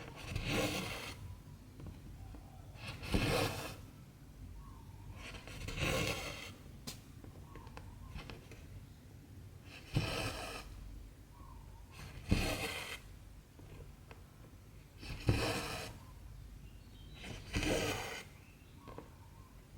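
Cotton embroidery thread being drawn through 14-count cross-stitch fabric with a needle: a short rasping pull about seven times, every two to four seconds.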